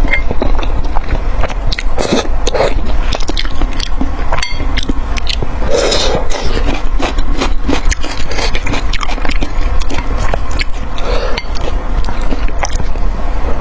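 Close-miked eating: chewing and mouth sounds with many small clicks and scrapes throughout, over a steady low hum.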